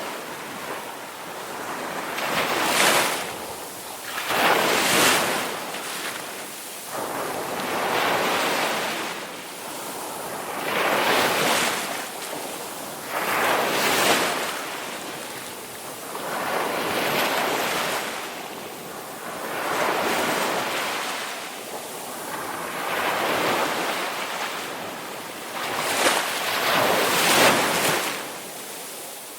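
Ocean waves breaking and washing on a shore, one after another, each swelling up and fading away every two to three seconds.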